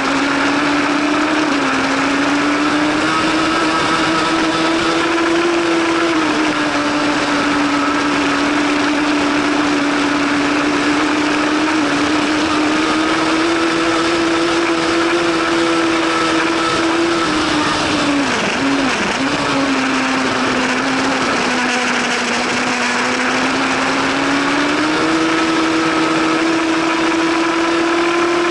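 Superbike engine running hard at high revs. Its pitch steps up and down a little and dips briefly about two-thirds of the way in, over a loud, steady rush of noise.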